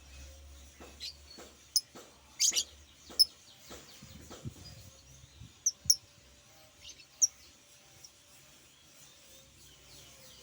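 Pet bird giving short, sharp, high-pitched chirps at irregular intervals, about a dozen in all, with gaps of a second or more between some of them.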